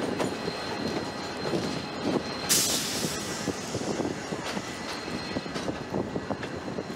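VIA Rail passenger train with an F40PH-2 diesel locomotive rolling slowly over the switches, wheels clicking irregularly over rail joints with a faint steady squeal. A short hiss comes about two and a half seconds in.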